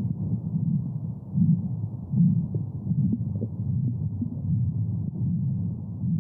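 Womb sound for soothing a baby: a low, muffled whooshing that swells in a slow, even pulse, like a heartbeat heard from inside the womb.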